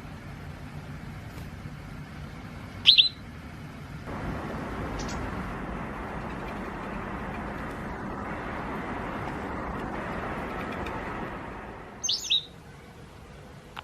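Japanese wagtail giving short, sharp chirps: a quick double chirp about three seconds in, a faint one a couple of seconds later, and another pair near the end. Under them runs a steady rushing background noise that swells from about four seconds in to about twelve.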